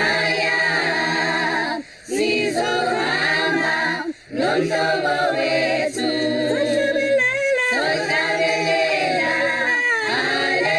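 A choir singing, several voices together, with two brief breaks about two and four seconds in.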